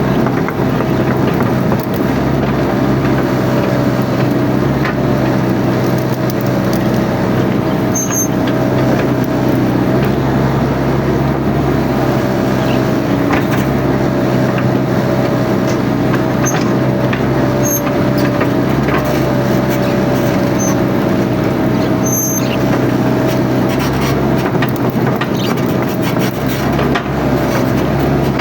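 Mini excavator's diesel engine running steadily at working speed, with a steady whine over it and scattered sharp clicks.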